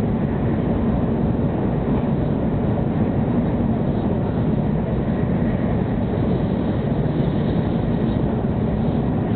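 Steady rumble of a 700 series Shinkansen running along the line, heard inside the passenger cabin.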